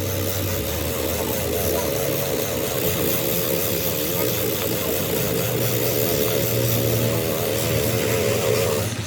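An engine or motor running steadily, with a slightly wavering pitch.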